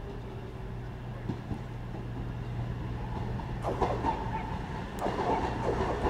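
Diesel train moving on the line: a steady low engine hum getting louder, with wheels clattering over the rails from about halfway through.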